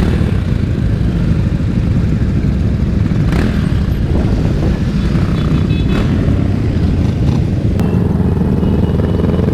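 Motorcycle engine running under way, steady and loud, its pitch rising near the end as it speeds up.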